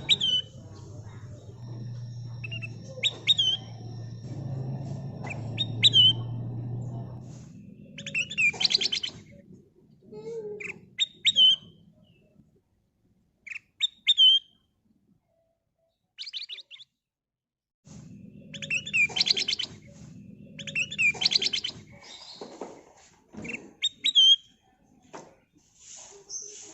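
Kutilang emas bulbul calling in short, sharp rising-and-falling notes, with a few bursts of fast chattering phrases between pauses. A low steady hum runs under parts of it.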